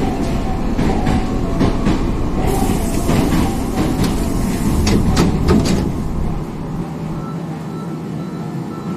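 Hankyu 5300 series electric train running, its TDK8550-A traction motors and wheels giving a steady rumble with clacks and knocks over the rail joints. A hiss joins in for a few seconds, then the rumble drops quieter about six seconds in, with a faint repeating tone near the end.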